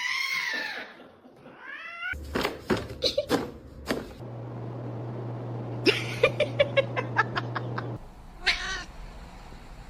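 Cat meowing: a drawn-out meow at the start, a short rising one about two seconds in and another near the end. In between come scattered clicks, then a steady low hum with a quick run of ticks over it.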